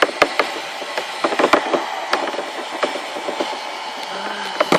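Hair dryer blowing hot air on its lower setting into a cloth garment held against it, a steady rushing whoosh, with irregular clicks and knocks from handling.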